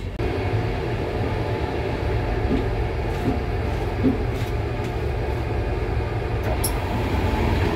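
Moving electric regional train heard from inside the carriage: a steady, even running rumble.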